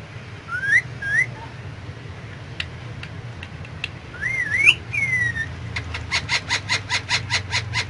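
Indian ringneck parrot whistling: two short rising whistles, then a longer whistle that rises and wavers before falling away, and near the end a fast run of short sharp calls, about seven a second.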